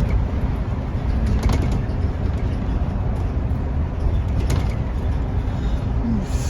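Scania N230UD double-decker bus on the move, heard from on board: a steady low diesel engine drone with occasional short rattles and knocks from the body and fittings. A brief squeak sounds near the end.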